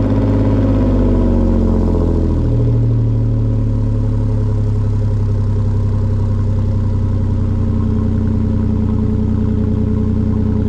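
2005 Nissan Xterra's 4.0-litre V6, a crate-rebuilt engine, running at the tailpipe just after starting. Its revs fall over the first two or three seconds, then settle into a steady idle.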